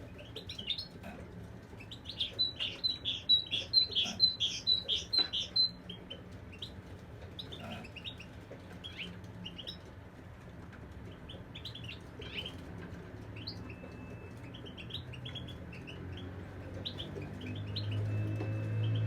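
European goldfinches chirping and twittering, with a quick run of loud repeated high notes about two seconds in, then scattered calls. A low hum swells near the end.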